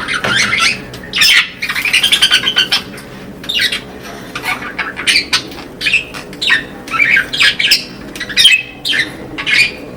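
Budgerigars squawking and chirping: short, sharp calls in quick, irregular succession.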